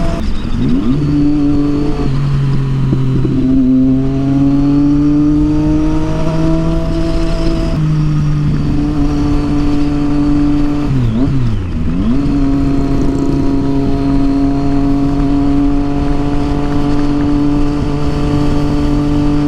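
Triumph Street Triple 675's inline three-cylinder engine through a loud Yoshimura aftermarket exhaust, ridden at low revs. The note climbs slowly through a gear, drops at a shift about eight seconds in, dips and comes back up around eleven seconds, then holds steady.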